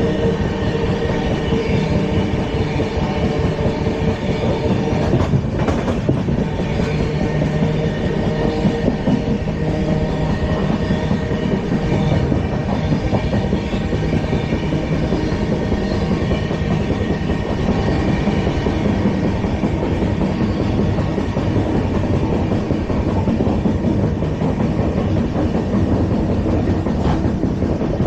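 LHB passenger coach running over the track: a steady, loud rumble and rattle of wheels on rails, with some clickety-clack over rail joints.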